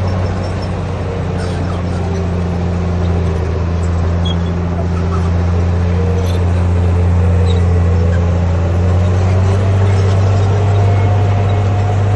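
Bulldozer's diesel engine running steadily: a deep, continuous hum with a fainter whine above it that drifts slowly up and down in pitch.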